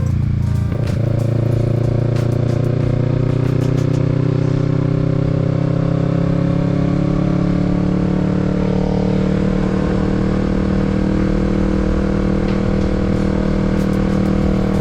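Kawasaki Z650's parallel-twin engine running on the move, its pitch briefly breaking about a second in and then climbing slowly and steadily.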